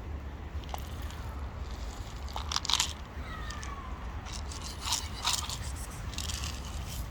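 A cat crunching and chewing food, with sharp irregular crunches, the loudest about three seconds in and again about five seconds in.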